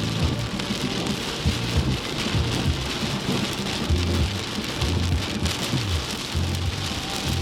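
Heavy storm rain pouring down steadily, with low, irregular rumbling underneath.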